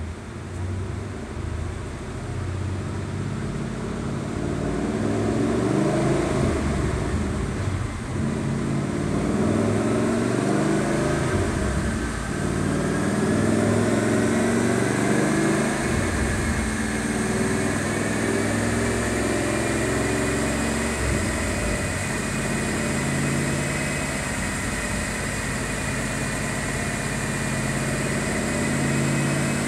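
2011 Ford Mustang GT's 5.0 V8 running on a chassis dyno through a Gibson rear exhaust section and mufflers. The engine note builds over the first several seconds and then holds steady. From about halfway on, a whine slowly rises in pitch.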